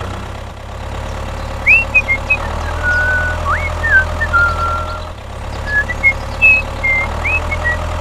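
Mini DIY tractor engine running steadily with a low drone. Short high chirps and whistles sweep up and down over it, in two clusters.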